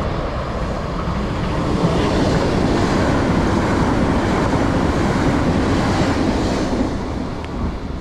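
Train running on the rails: a steady, loud rumble of wheels and car body, swelling a little about two seconds in and easing slightly near the end.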